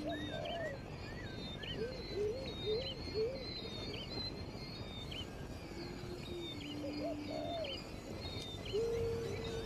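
Several wild birds calling together. There are low, flat cooing notes, a run of four short rising-and-falling whistles about two seconds in, a longer held note near the end, and frequent thin high chirps throughout.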